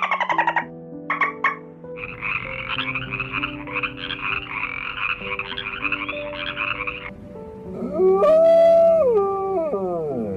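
Animal calls over soft background music: quick pulsed calls, then a dense, fast rattling chorus of croaks for about five seconds. Near the end comes one long, loud call that rises, holds and then glides down.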